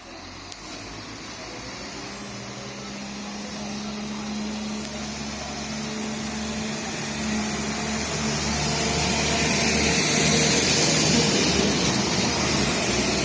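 Train approaching on the line, growing steadily louder: a diesel engine hum with steady low tones under rising wheel and rail noise.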